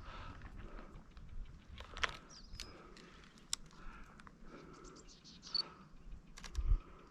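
Footsteps crunching on a dirt trail, roughly one a second, with scattered small clicks and ticks and a couple of short high chirps.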